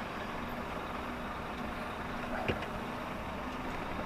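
Lorry's diesel engine running steadily, a low hum heard from inside the cab, with one short click about two and a half seconds in.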